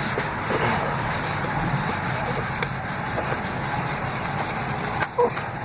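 Cloth scrubbing hard on a plastic brake-light lens with a gritty plastic polish, a steady rubbing. A short louder sound about five seconds in.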